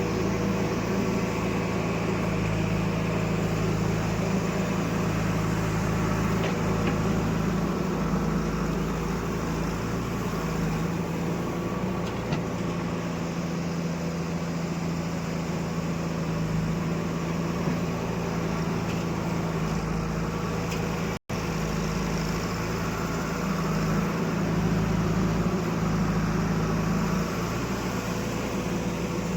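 Diesel engine running steadily at an even speed, cutting out briefly about two-thirds of the way through.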